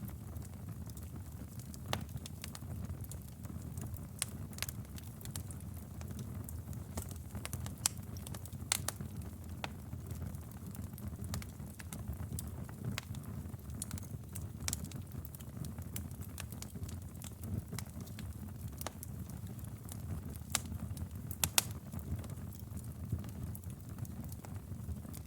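Wood fire burning in a fireplace: a steady low rumble of flames with irregular sharp crackles and pops, a few louder snaps about two, eight and twenty-one seconds in.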